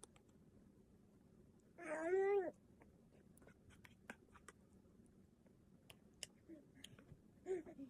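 A short, high, whining vocal call lasting about half a second, a couple of seconds in, then two brief softer calls near the end, with small clicks scattered between.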